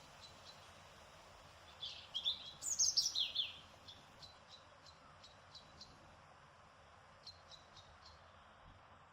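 Songbirds singing in a garden: a burst of quick, high, falling chirp notes about two seconds in, then faint short chirps repeated every half second or so over a soft steady hiss of breeze.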